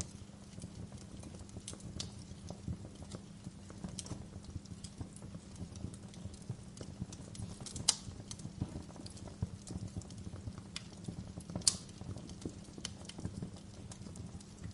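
Wood fire crackling in a fireplace: a dense run of small, irregular crackles over a low steady rumble, with two sharper pops about eight and twelve seconds in.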